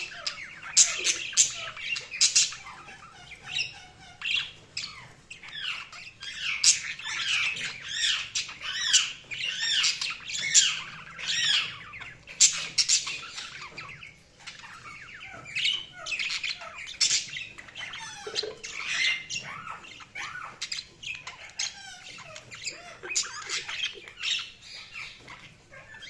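Budgerigars chattering: a continuous run of quick warbling chirps and gliding whistles, broken by short, sharp squawks.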